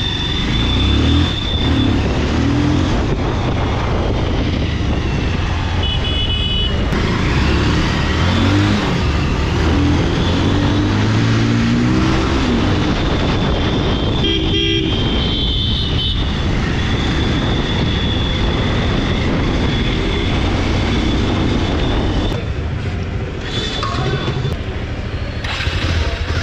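Bajaj Pulsar 220F's single-cylinder engine running under way, its pitch rising and falling as it accelerates and shifts. Vehicle horns honk several times over it.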